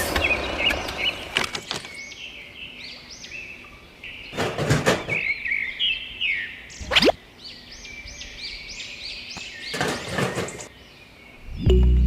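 Small birds chirping over and over, with a few short knocks and a quick rising whoosh in between.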